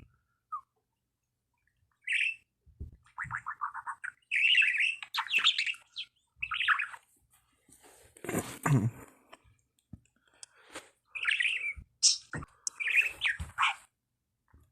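Budgerigar chirping and chattering in short bursts with pauses, a budgie talking to its reflection in a mirror. About eight seconds in there is one louder, rougher sound.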